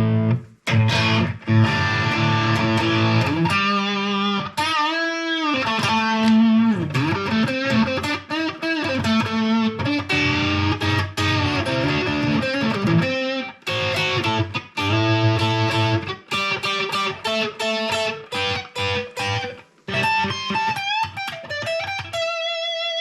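Electric guitar, a Fender Stratocaster, played through a Fender Mustang GTX100 modelling amp: picked lead phrases with string bends. The playing pauses briefly a few times.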